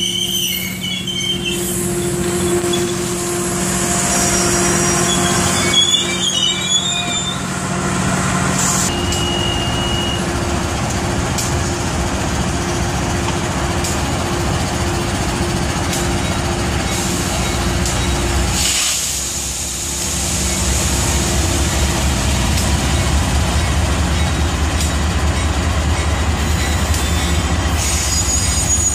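Metrolink bilevel passenger train rolling along a station platform, with steady wheel and running noise and high wheel squeals in the first few seconds. About 19 seconds in the sound dips briefly, then a heavier low rumble from the passing train or the BNSF diesel freight locomotive on the next track.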